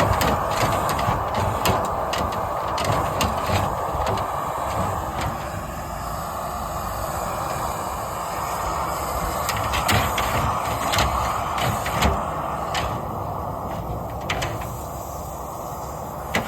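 Dryer vent cleaning equipment running with a steady rushing noise, with frequent sharp knocks and rattles over it.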